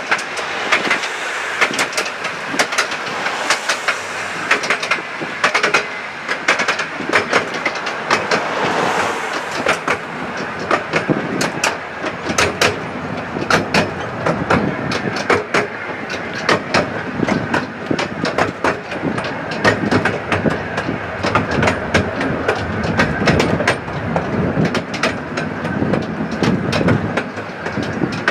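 Miniature railway train running along the track, heard from a carriage. The wheels click sharply and irregularly over rail joints above a steady rolling rumble.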